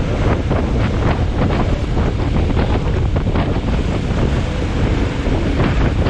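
Wind buffeting the microphone: a steady loud rumble with frequent short gusty bursts.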